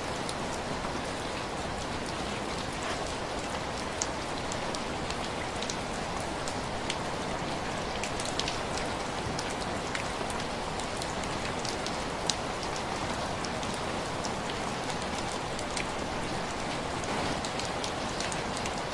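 Heavy rain falling steadily, with scattered sharp ticks and pops through it, a few of them louder.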